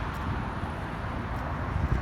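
Outdoor ambience in a snowstorm: a steady rushing noise with low rumbling underneath and a brief low thump near the end.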